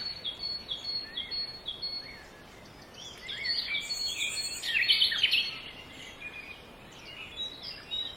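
Small birds chirping and singing over a faint steady hiss. A run of short repeated whistled notes comes in the first two seconds, then a busier cluster of calls from about three to five seconds in, thinning out near the end.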